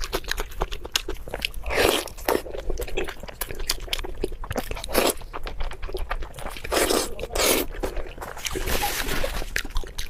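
Close-miked mukbang eating sounds: a person biting, crunching and chewing food. The crackles come quick and irregular, with louder, longer bites about two, five and seven seconds in.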